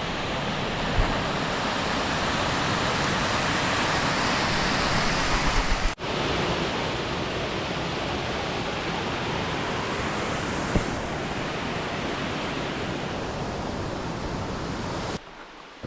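Steady rushing roar of a waterfall close by, falling water crashing into its pool. It cuts off abruptly about six seconds in and starts again at once, then drops away suddenly near the end.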